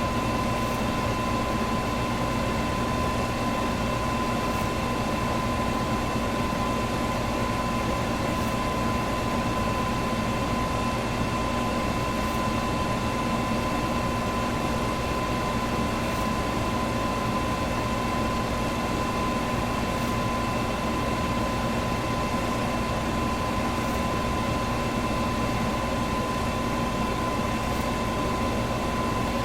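Electric fan running steadily: an even rushing whir with a constant hum tone running through it.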